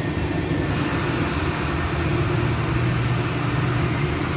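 Steady mechanical drone with a low hum and an even rush of air, running without a break.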